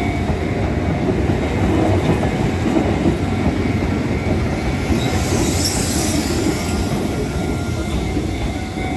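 Izuhakone Railway 1300 series electric train running on the rails, a steady rumble of wheels on track with a faint thin squeal from the wheels.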